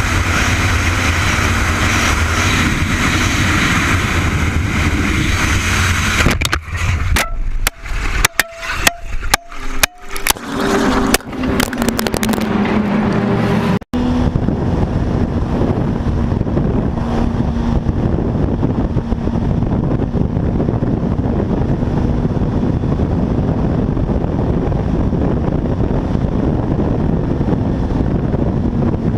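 Road vehicle noise: a car's engine and tyres running steadily on the road. Midway through comes a run of sharp, sudden knocks and breaks lasting several seconds.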